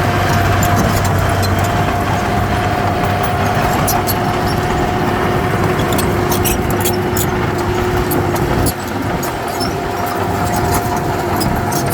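Heavy diesel engine of earthmoving machinery running steadily under a high whine, with scattered sharp clicks and clanks over it. The sound drops slightly in level about nine seconds in.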